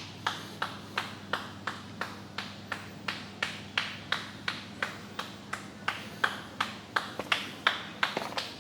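Footsteps walking at a quick, even pace, about three steps a second, each a sharp tap, over a faint steady low hum.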